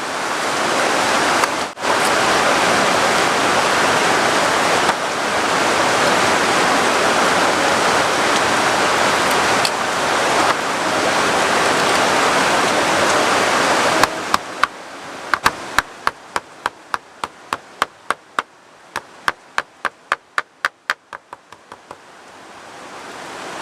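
Heavy rain pouring steadily. About fourteen seconds in the rain drops back and a knife chops quickly on a cutting board, about three sharp knocks a second, slicing shallots.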